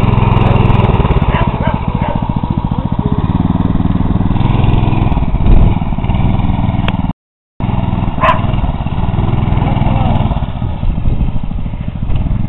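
Mini bike's small engine running, its speed rising and falling as it is ridden; the sound cuts out completely for a moment about seven seconds in.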